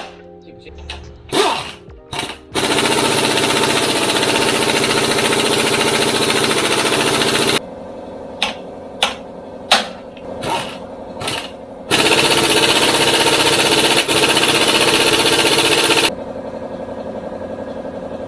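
Impact wrench hammering on a stubborn bolt at the front of the engine, likely the crank pulley bolt, in two long bursts of several seconds each. Between the bursts there are separate sharp metallic knocks.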